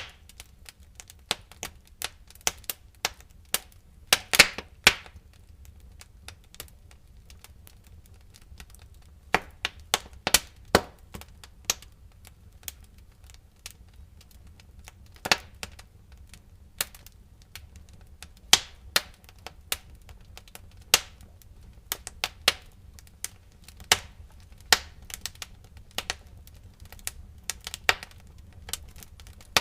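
Wood fire in a fireplace crackling, with sharp pops and snaps at irregular intervals, some in quick clusters, over a low steady rumble.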